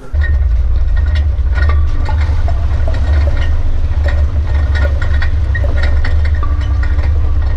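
Off-road SUV engine running at low speed, heard as a loud, steady low rumble, with scattered light clicks and knocks over it.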